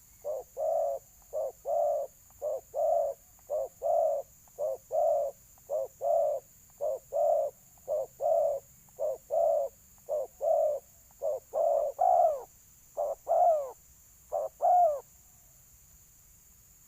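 Spotted dove cooing over and over in territorial challenge, a short note followed by a longer one about once a second, until the calling stops about two seconds before the end.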